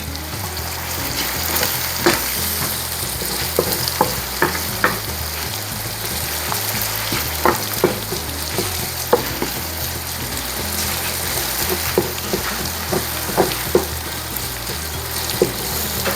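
Minced garlic and onion sizzling as they sauté in a pot, with a utensil clicking and scraping against the pot now and then as it is stirred.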